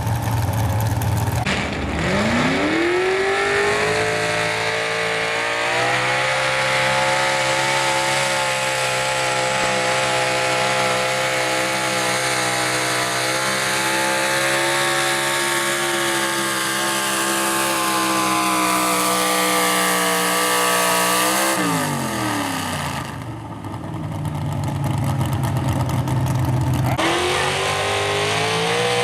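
Super Stock two-wheel-drive pulling truck engine revving up hard at the launch and then held at high revs under load for about twenty seconds as the truck drags the pulling sled, the pitch edging up slightly, before it drops off sharply when the throttle is released. It revs up once more near the end.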